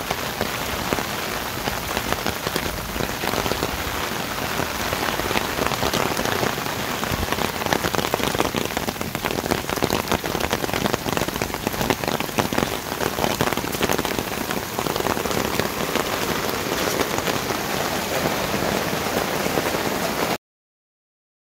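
Heavy rain falling steadily, with a dense mass of individual drop strikes close by. It cuts off suddenly near the end.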